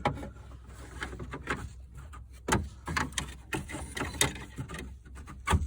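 Plastic dash parts being handled and pushed together: a run of small clicks and knocks as the stereo mounting kit is worked into the truck's dash, ending in a sharp snap near the end as it clips into place.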